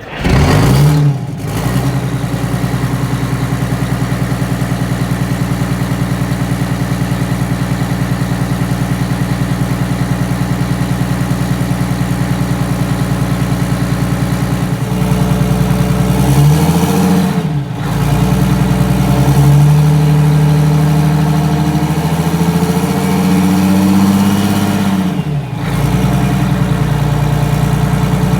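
Detroit Diesel 6V92TA two-stroke V6 turbo diesel cold-starting in a GM 4106 bus: it fires at once, flares briefly, then settles into a steady idle. In the second half its speed is raised twice and falls back to idle each time.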